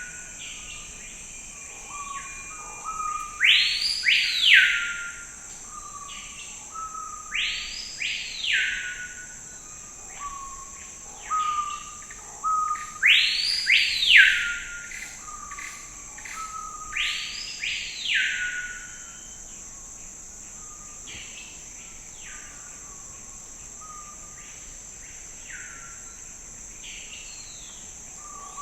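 Forest birdsong: a bird repeats a loud call that sweeps up and back down, about every four to five seconds, with short lower notes between; the calls grow fainter in the second half. A steady high insect drone runs underneath.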